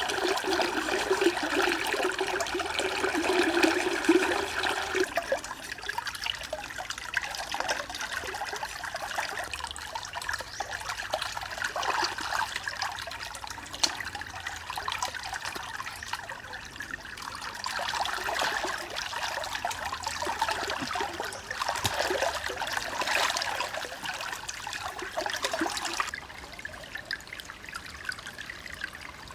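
Water trickling and splashing, fuller for the first few seconds, then lighter with a few louder swells.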